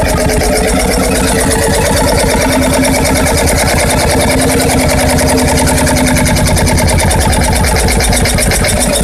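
Freris-built 12 hp two-stroke diesel engine of the early 1950s running steadily, with a rapid, even beat of firing strokes.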